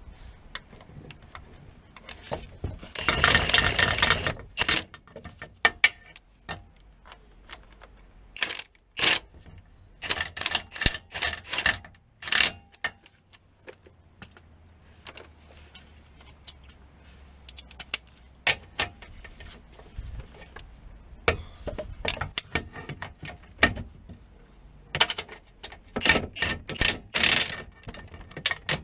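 Hand tools and metal parts clicking and clinking in irregular bursts during work on a car, with a dense run of rapid clicks about three seconds in.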